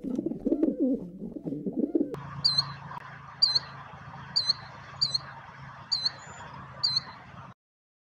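Rock pigeon cooing for about two seconds, then an abrupt switch to a killdeer calling: six sharp, high notes about once a second over a steady background hiss, cutting off shortly before the end.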